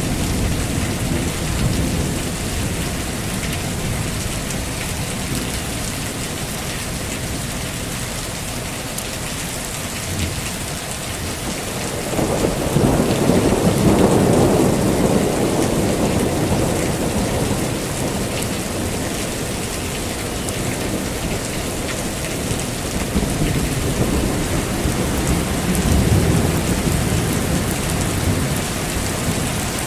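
Heavy rain falling steadily, with a long roll of thunder rumbling up about twelve seconds in and fading over several seconds, and a weaker rumble near the end.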